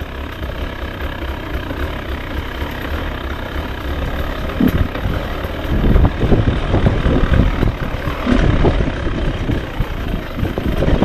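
Beta RR 300 single-cylinder two-stroke enduro motorcycle engine running while ridden, getting louder from about six seconds in.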